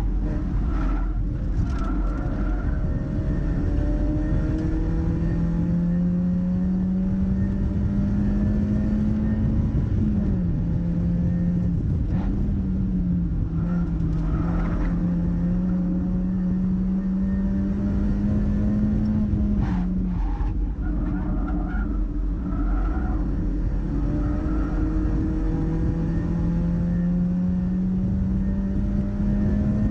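Mazda MX-5 engine running hard on a race track, its note climbing slowly and steadily. The note falls away and recovers about a third of the way through, cuts out around two-thirds of the way in, then climbs again near the end, all over constant wind and road noise.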